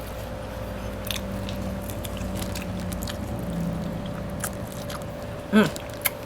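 Close-up eating sounds: chewing and biting with wet mouth clicks. About five and a half seconds in comes a short, loud hummed vocal sound that falls in pitch, and a sharp click follows just after.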